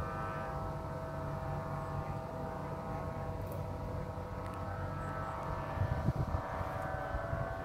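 Strong wind buffeting the microphone with a low, gusting rumble, under a steady drone of several held pitches.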